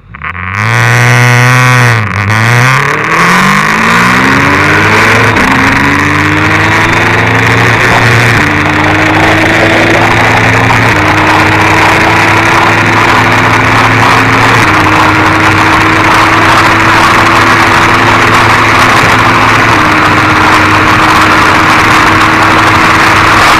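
Sports motorcycle engine accelerating flat out through the gears. Its pitch climbs and drops at each upshift: quick shifts every second or so at first, then long, slow pulls of several seconds in the top gears. A rushing noise builds with speed.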